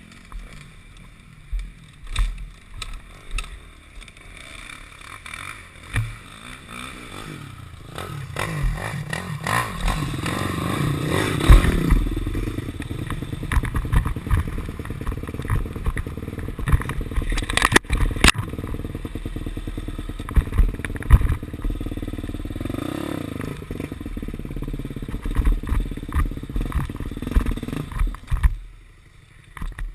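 KTM 250 SX-F four-stroke single-cylinder dirt bike engine. It runs quietly with scattered knocks and clatter for the first several seconds, then revs up hard and pulls under load for about twenty seconds, and drops off sharply near the end.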